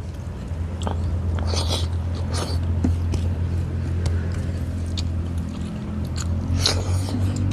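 Close-up chewing and mouth sounds of a man eating rice and fish by hand, with small wet smacks and clicks, over a steady low hum.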